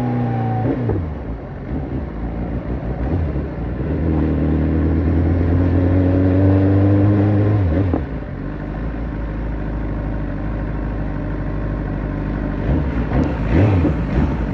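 BMW S1000RR inline-four through an Akrapovic carbon exhaust. Its note rises slowly under throttle for a few seconds, then drops sharply about halfway through and settles into a steadier lower note, with a few short blips near the end.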